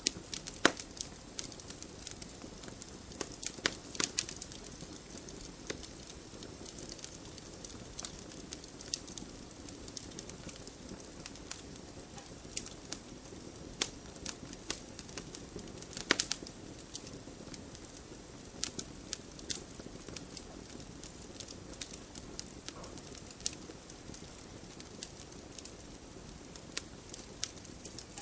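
Wood fire burning in a fireplace, crackling with irregular sharp pops over a low steady hiss; a few louder snaps stand out, the strongest about two-thirds of the way through.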